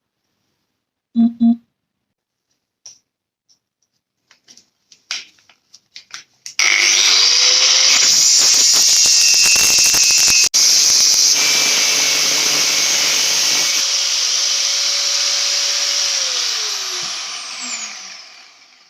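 Two knocks and a few light clicks, then an electric power tool starts and runs steadily for about nine seconds before it is switched off and winds down with a falling whine.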